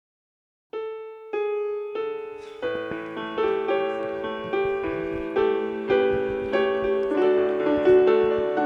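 Piano playing the introduction to a song: three single notes starting about a second in, then fuller chords over a bass line.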